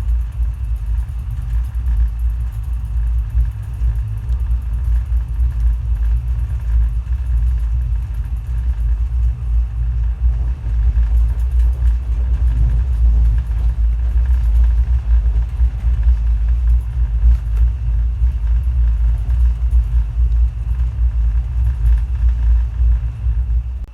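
Steady low rumble of a moving passenger train.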